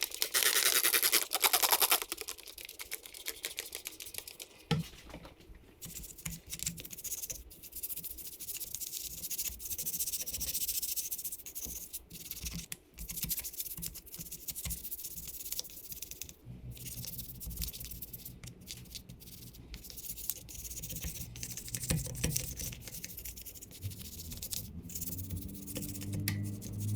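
Brisk scratchy brushing and scrubbing on the engine cases, with a louder hissing burst at the start. Faint background music comes in during the last third.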